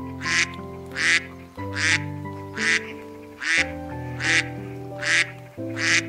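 A duck quacking in a steady, evenly spaced series, about eight quacks, over background music of slow held chords.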